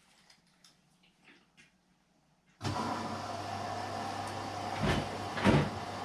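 AEG Lavamat Turbo washer-dryer starting its wash cycle. After a few faint clicks, a steady mechanical hum starts abruptly about two and a half seconds in, with two louder swells near the end.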